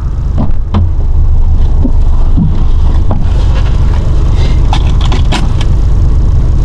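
2015 Subaru WRX STI with its turbocharged EJ257 boxer engine, driven hard: a loud, steady low rumble of engine and road with scattered short clicks and knocks.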